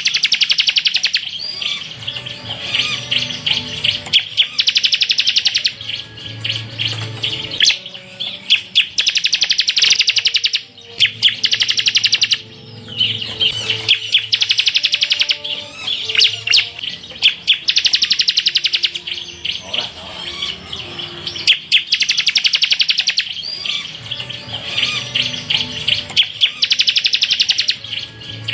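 Ciblek (prinia) singing its 'tembakan' song: a run of loud, rapid, high trilled phrases, each a second or two long, repeated with short pauses between them.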